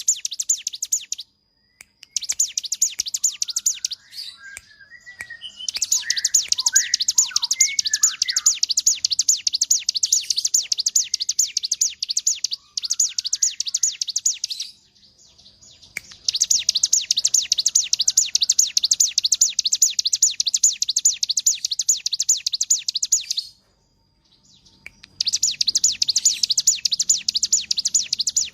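Ciblek gunung (hill prinia) singing its rapid rattling song: long, fast trains of high, buzzy repeated notes, each lasting several seconds with short pauses between. A few lower, separate chirps come in about five to nine seconds in.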